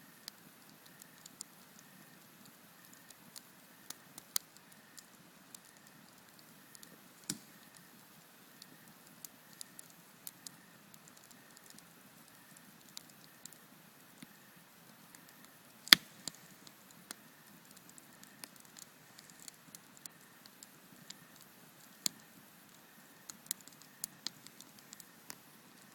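Campfire crackling: irregular sharp pops and snaps of burning wood over a faint steady hiss, with one loud pop about sixteen seconds in.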